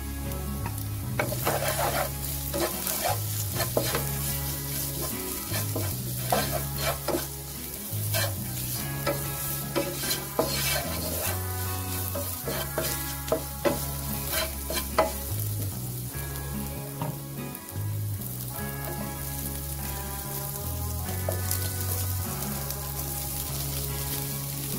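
Onions, green chillies and chilli flakes sizzling in hot oil in a pan while a spatula stirs and scrapes them round, with irregular scrapes and clicks against the pan. This is a Sri Lankan tempering (themparaduwa) being fried.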